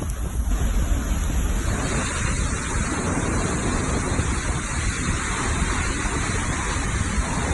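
Hurricane wind blowing hard over the microphone, a steady rushing with heavy low buffeting. The sound changes about two seconds in.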